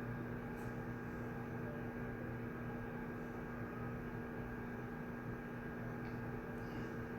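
Room tone of a shared study room: a steady electrical hum over a low rumble, with a few faint small clicks, one about half a second in and two near the end.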